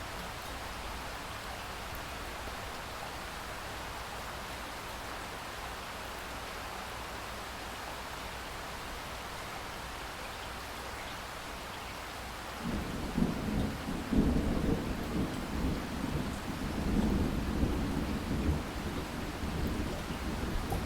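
Steady rain falling as a continuous hiss; about two-thirds of the way through, a roll of thunder sets in suddenly and keeps rumbling over the rain.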